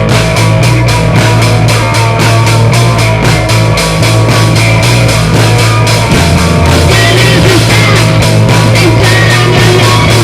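Loud instrumental rock played by a band: guitar and bass over drums keeping a fast, even beat of about five hits a second, with no singing.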